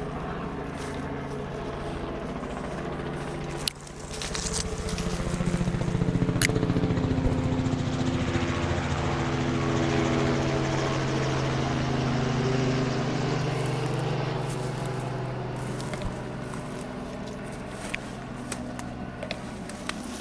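Helicopter flying over: a steady droning hum that swells about four seconds in, is loudest through the middle, and slowly fades toward the end. A few sharp clicks sound over it.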